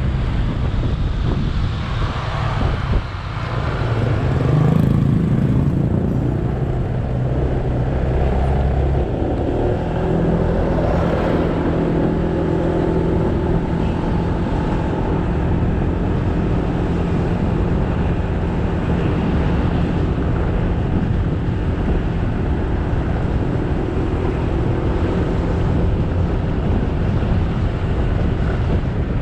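Motorcycle engine running while riding, with road and wind noise on the bike-mounted camera's microphone. The engine note dips briefly about three seconds in, picks up again, and holds a steady pitch from about ten seconds on.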